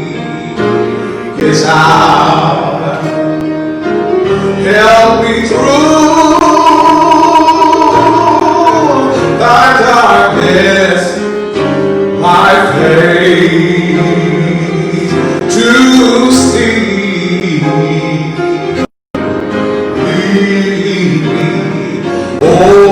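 Gospel singing with instrumental accompaniment in a church service. The sound drops out completely for an instant about three-quarters of the way through.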